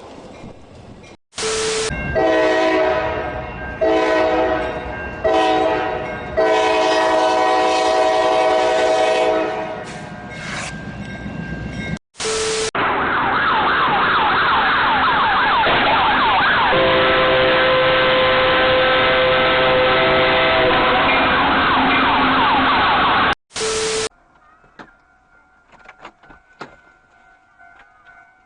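Train horn sounding in a series of blasts, one held for about three seconds. Then a loud steady rushing noise with wavering whistling tones, joined by a long horn blast. The parts are split by short identical transition sounds, and the sound drops to a low level near the end.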